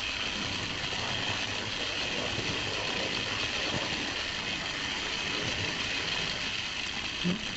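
Small electric motor of a Tri-ang Hornby 0-4-0 model tank locomotive running, a steady whirring hum with hiss, heard from the camera riding on the train.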